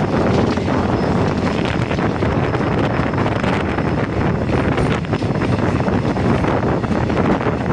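Steady rush of a passenger train running along the track, heard from on board, with wind buffeting the microphone.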